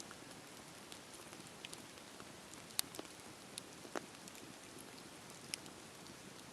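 Campfire burning with a steady soft hiss and scattered sharp crackles and pops at irregular intervals, a few of them louder around the middle.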